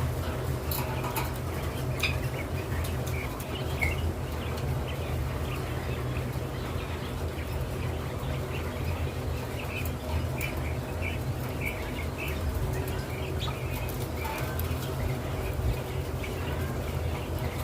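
Birds chirping in many short, scattered calls, with a few sharp clicks and a steady low hum underneath.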